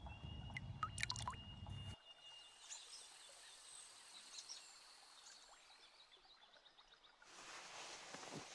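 Quiet forest ambience with faint bird chirps and thin high whistled notes, mostly in the first half. A low rumble stops abruptly about two seconds in, and a short rush of noise comes near the end.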